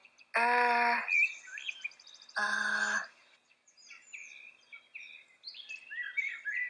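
Bird chirps in a sound-effect ambience, with a fine rapid trill high up about a second in. Three short held tones, each about half a second long, come in the first three seconds and are the loudest thing heard.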